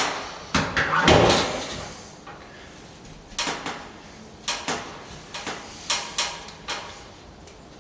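Hand work with tools and building material: a couple of loud scraping, rustling handling noises at the start, then a string of about seven short, separate knocks and clicks spread over the next few seconds.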